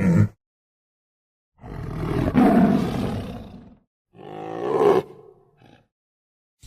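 Tiger roaring twice: a long roar starting about one and a half seconds in, then a shorter one about four seconds in.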